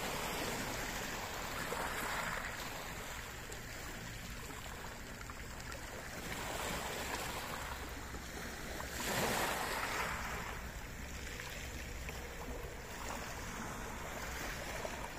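Water rushing steadily, swelling louder a few times, most strongly about two thirds of the way through.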